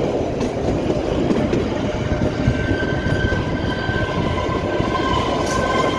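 Kalka–Shimla narrow-gauge train running, heard from on board: a steady rumble and clatter of wheels on the track. A steady high-pitched squeal joins in about two seconds in.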